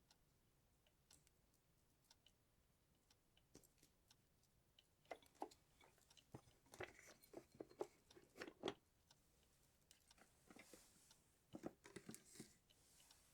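Christmas decorations being handled: faint clusters of small clicks, taps and crinkly rustles starting about five seconds in, with a soft hissing rustle near the end.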